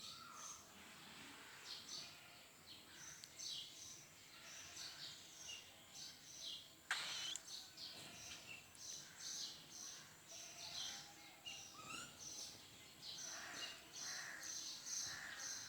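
Many small parrots chattering in a steady stream of short, high chirps, with a sharp click about seven seconds in.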